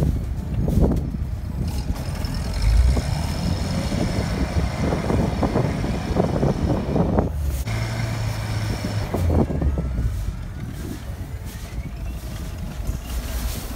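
Off-road 4x4 engine running and revving under load on a snowy climb. Its note shifts about halfway through.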